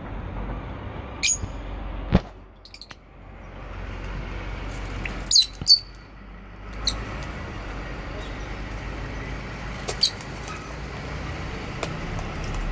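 Lovebirds giving a few short, high chirps, spaced several seconds apart, over a steady background hiss; a sharp click about two seconds in.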